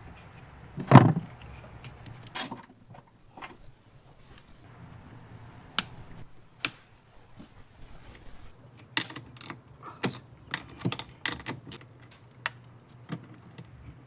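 Wiring being pulled and handled inside a vehicle: scattered clicks, taps and rustles of wires and plastic, with a dull thump about a second in and two sharp clicks midway.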